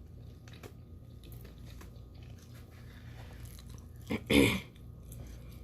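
A person chewing food close to the microphone, with small wet mouth clicks and one louder mouth sound with a voiced edge about four seconds in.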